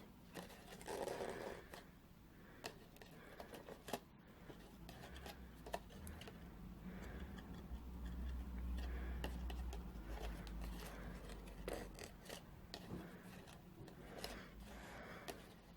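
Faint rustling and small clicks of hands adjusting a narrow satin ribbon bow on a cardstock box, with light scraping of paper and ribbon.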